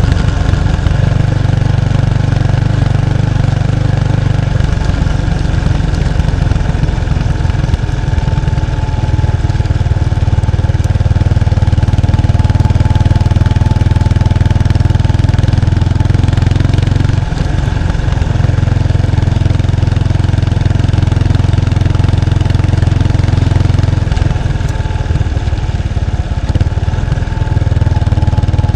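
1993 Kawasaki Estrella's 250 cc single-cylinder engine running through its stock muffler, heard close to the exhaust as the bike is ridden. The exhaust note is steady, with the engine speed changing briefly a few seconds in, once around the middle, and again near the end.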